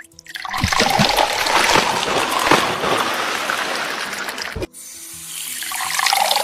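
Rushing, splashing water. It cuts off abruptly about two-thirds of the way through, then a second water sound swells up.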